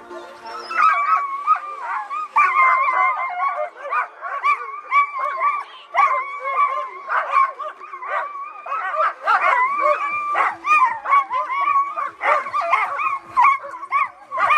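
A chorus of dogs barking, yipping and howling excitedly, many voices overlapping, beginning about a second in.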